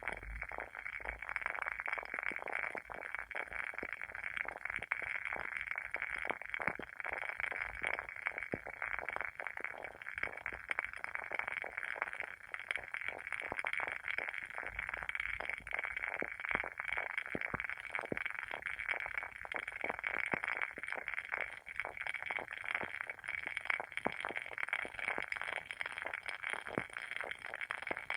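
Wooden wick of a WoodWick candle burning, crackling with a dense, continuous run of small pops.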